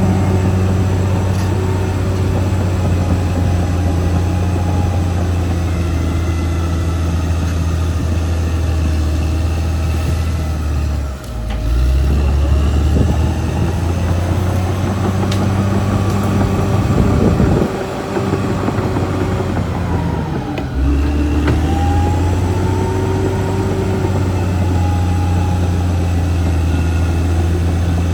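Caterpillar D6R XL bulldozer's diesel engine running hard. The engine note dips and changes pitch twice, about a third of the way in and again after the middle, as the revs shift.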